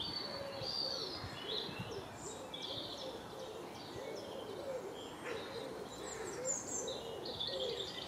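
Birds calling: a low, soft note repeated two or three times a second, with higher chirps from small songbirds above it.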